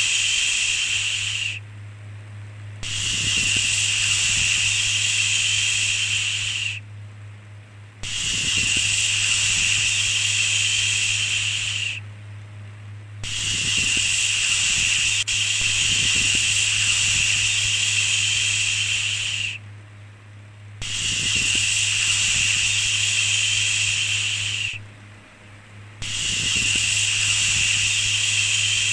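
Repeated long 'shhh' shushing sounds, each lasting about four to six seconds with a pause of about a second between them, over a steady low hum.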